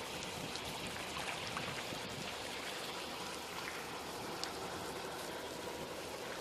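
Rain falling steadily: a continuous hiss with scattered sharp drop ticks.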